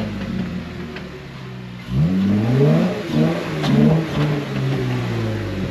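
Off-road 4x4's engine revving hard as the driver gives it throttle to climb out of being stuck on a slippery hill. It eases off about a second in, then revs sharply up again near two seconds and surges up and down several more times.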